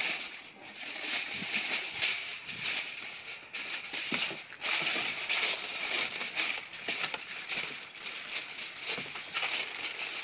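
Aluminum foil crinkling and rustling in irregular bursts as it is handled and pressed into a cardboard box.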